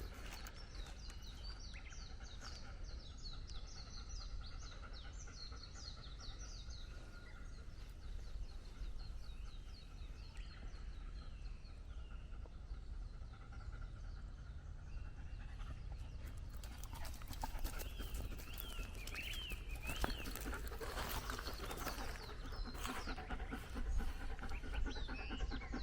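Forest birdsong: a rapid run of high chirps over the first ten seconds, and a wavering call about eighteen seconds in. Near the end a dog is panting, with footsteps on the path, louder than the birds.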